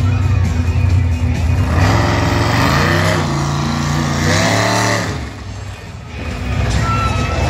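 Monster truck engine revving hard, its pitch climbing and falling over and over. It drops back briefly about five seconds in, then revs up again, with music playing underneath.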